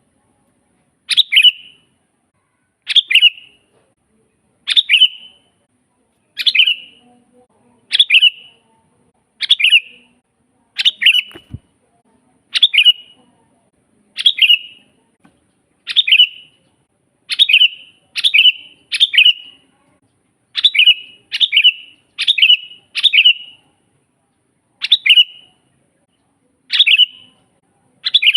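Sooty-headed bulbul (kutilang) giving a short, clear call over and over, about once every two seconds, with a few calls coming in quick runs of three or four.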